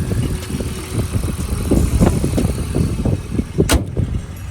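BMW E39 525i's inline-six engine idling, with a single sharp knock about three and a half seconds in.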